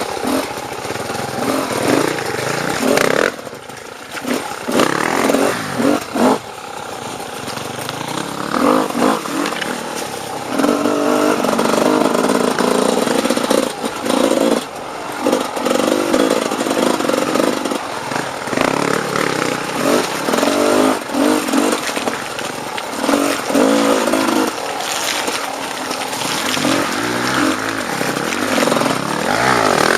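Dirt bike engine running hard under varying throttle, revving up and falling back over and over, with brief drops when the throttle is closed.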